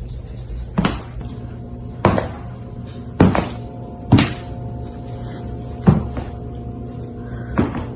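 A series of six dull thumps or knocks, irregularly spaced about a second or so apart, over a steady humming background.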